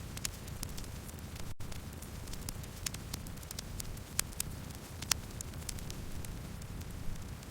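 Campfire burning: a steady low rumble of flame with irregular sharp crackles and pops of burning wood, and a momentary dropout about a second and a half in.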